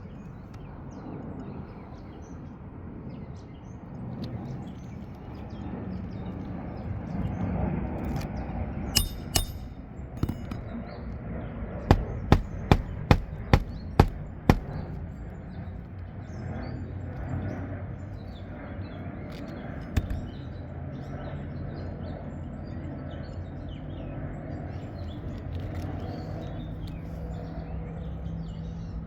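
Hammer blows driving roofing nails to fasten a replacement asphalt shingle: a quick run of about seven sharp strikes in the middle, with a few single knocks before and after.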